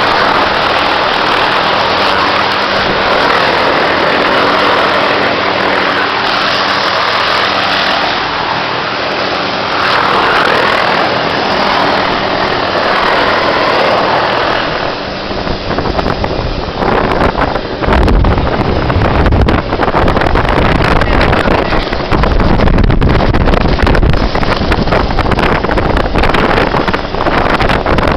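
Hughes 500 helicopter's turbine and rotor running steadily. About halfway through the sound turns rougher and louder at the low end, with an uneven buffeting rumble.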